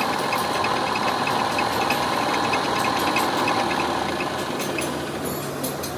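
A workshop machine, likely the lathe, running steadily with a fast, regular ticking.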